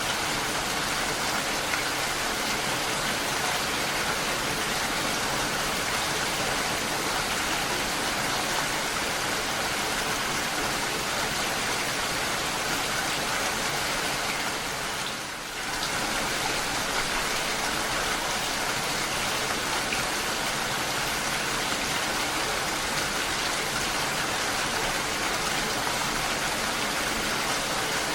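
Steady rain falling, an even hiss of many drops with no thunder, dipping briefly in loudness about halfway through.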